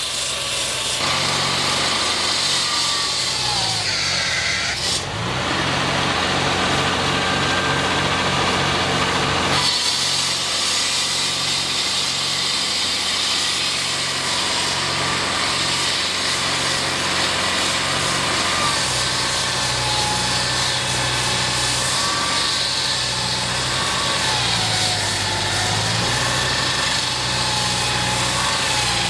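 Engine-driven machinery running steadily, its pitch wavering up and down at times, with a change in texture a few seconds in and again about ten seconds in.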